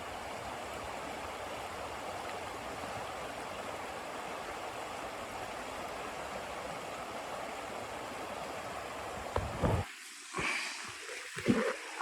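Steady rushing of blizzard wind that cuts off abruptly near the end. A few short, loud knocks or crunches follow it.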